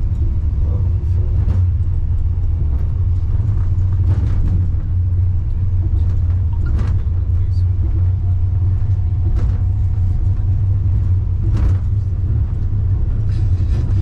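Wuppertal Schwebebahn suspension railway car running along its overhead rail, heard from inside as a steady low rumble. Short sharp knocks come roughly every two to three seconds, and a faint steady whine is heard about halfway through.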